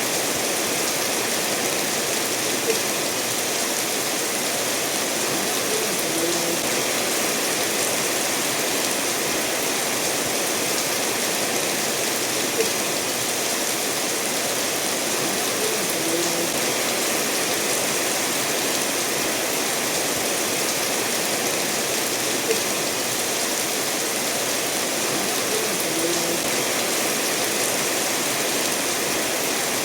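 Steady rain falling together with a stream of water running over stones, an even rushing hiss with a few sharper taps now and then.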